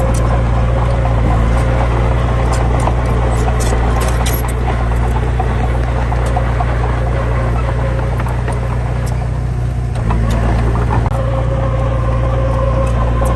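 Heavy diesel engine running steadily under a low hum, with a thin whine that fades out in the middle and comes back near the end.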